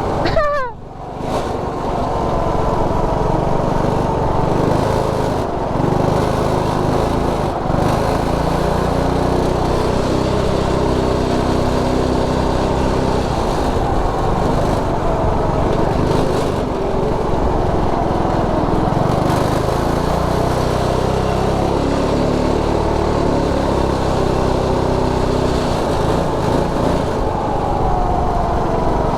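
Predator 212 Ghost single-cylinder go-kart engine running hard under throttle. Its pitch drops quickly about a second in, then it runs steadily near top revs, with the revs falling off near the end.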